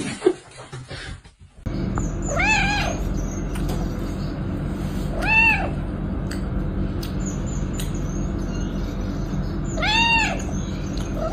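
A cat meowing four times, a few seconds apart, each meow a short call that rises and falls in pitch, over a steady low hum.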